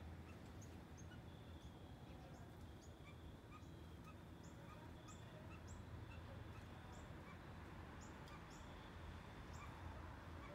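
Quiet garden ambience with faint, short bird calls repeated every second or so over a low background rumble.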